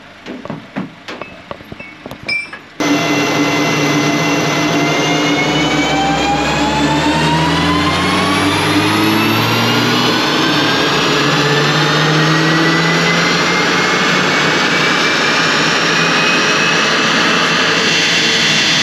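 Mk8 Volkswagen Golf R's turbocharged four-cylinder under a full-throttle pull on a chassis dyno. It starts abruptly about three seconds in and runs loud and steady, with a whine that climbs smoothly in pitch as the rollers and drivetrain speed up.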